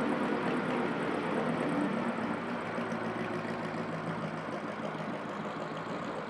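Vintage straight-eight car engine running at a steady, even pace, easing off slightly a couple of seconds in.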